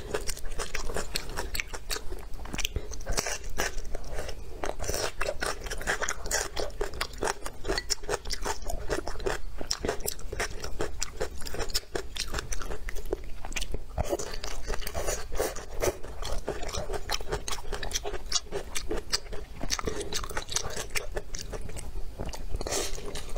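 A person chewing and biting mouthfuls of stir-fried leafy greens and rice close to the microphone: a dense, irregular run of small crisp clicks and wet mouth sounds, with no pauses.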